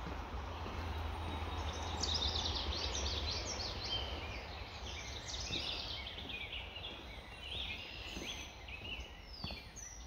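Several wild birds singing at once, a busy run of short, quick high chirps and trills that starts about two seconds in. Under it, a low rumble that fades out after a few seconds.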